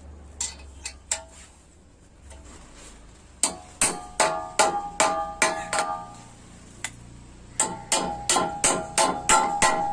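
Metal being struck with a hammer, the blows ringing: a few single taps, then two runs of quick blows, about two to three a second.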